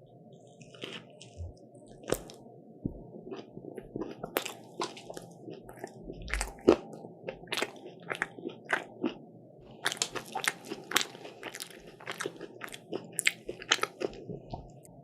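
Close-up crunching of a crisp croffle being bitten and chewed, with many sharp crackling crunches. The crunches come thickest in the second half, and there is one loud crunch about halfway through.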